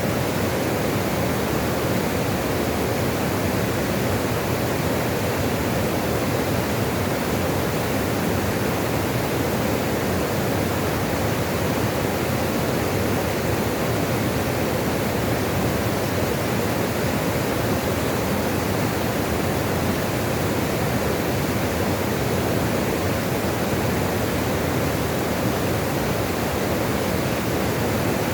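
Steady rushing of flowing water, a continuous even wash with no change in level.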